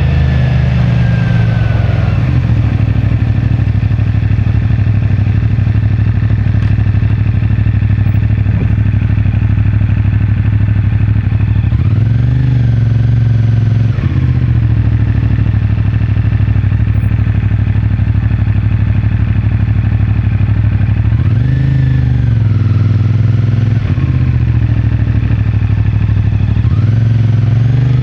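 CFMoto 450MT's parallel-twin engine running at low, steady revs while riding, with three short revs up and back down: about twelve seconds in, just past twenty seconds, and again near the end. Heard through a mic in the rider's pocket.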